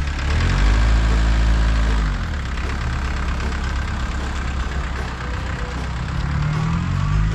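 A vehicle engine revs up and falls back over the first two seconds, runs steadily, then picks up again near the end.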